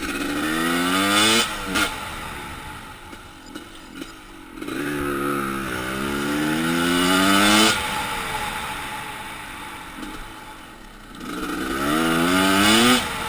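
Motorcycle engine accelerating hard three times, its pitch climbing each time and then dropping away abruptly.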